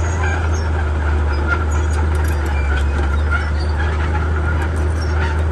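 Komatsu D31P bulldozer's diesel engine running steadily with a deep drone, with scattered faint clicks and squeaks over it.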